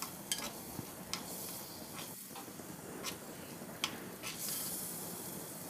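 Dried fish frying in oil in a clay pot: a faint steady sizzle, with a few light ticks as a steel spoon turns the pieces.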